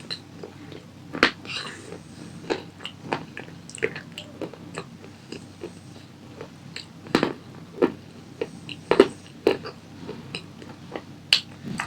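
A person biting and chewing a crunchy snack close to the microphone: irregular sharp crunches, several much louder than the rest.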